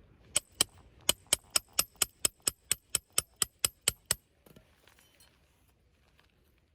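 About sixteen sharp metallic strikes at a steady four or so a second, each with a high ringing, stopping abruptly a little past halfway.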